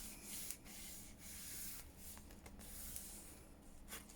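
Faint rubbing and scuffing of paper being handled and pressed down, in a few soft stretches with small ticks between them.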